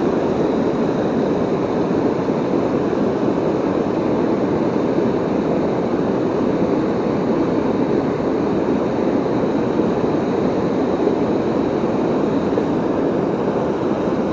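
Steady, unbroken rush of water pouring over a river waterfall.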